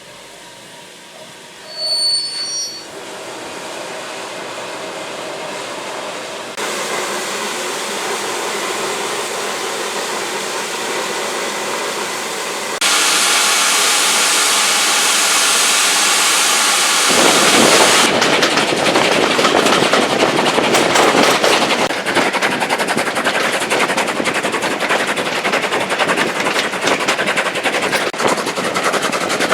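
A brief high-pitched whistle about two seconds in, then a steam locomotive working: steam hiss that grows louder in steps, turning into rapid, loud exhaust beats about two-thirds of the way through.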